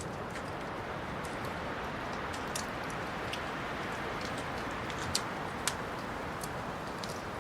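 Wood fire crackling in a fireplace: irregular sharp pops and ticks over a steady low rush of burning logs.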